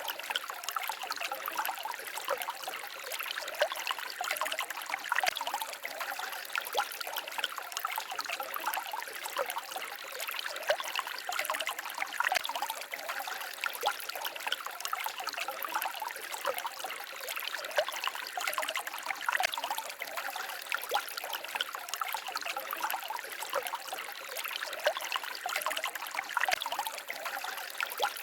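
Small forest stream babbling and trickling over stones, a steady run of water with many small splashes and gurgles.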